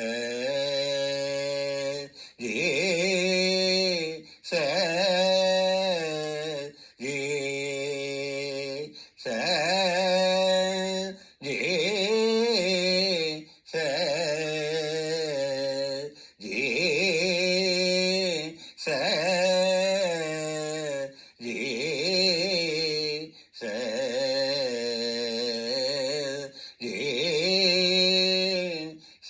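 A man's voice chanting a mantra in long drawn-out tones, about a dozen repetitions of roughly two seconds each, with a short break for breath between them. Many tones step up from a lower pitch to a higher one partway through.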